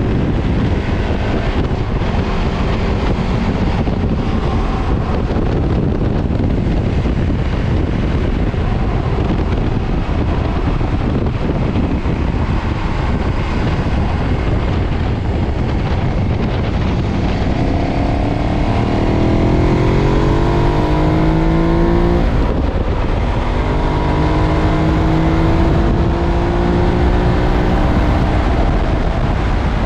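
2013 KTM 990's V-twin running through its stock exhaust at speed, under heavy wind rush. In the second half the engine note climbs in pitch, cuts off briefly, then climbs again: hard acceleration with an upshift.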